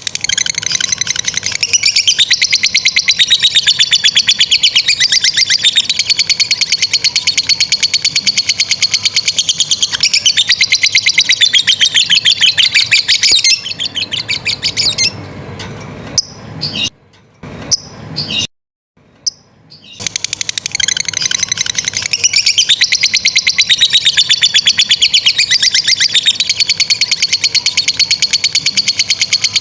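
Lovebird giving its long chattering trill (ngekek panjang): a very fast, unbroken run of shrill notes. The trill breaks off about halfway through, with several seconds of quieter gaps, then starts up again.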